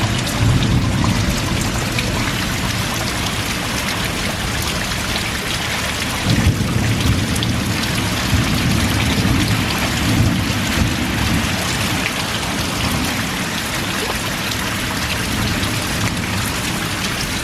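Heavy rain falling steadily in a thunderstorm, with a low rumble that swells twice, once near the start and again for several seconds around the middle.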